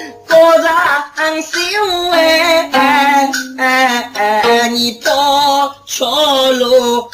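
Wenzhou guci storytelling singing: a solo voice sings the tale in short melodic phrases with held, bending notes and brief breaks between phrases.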